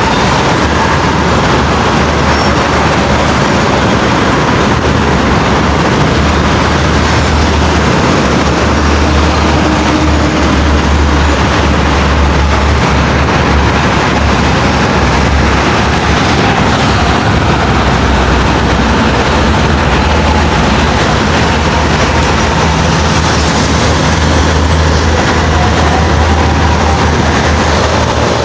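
Heavy trucks on the road: a steady low diesel engine rumble under continuous road and tyre noise.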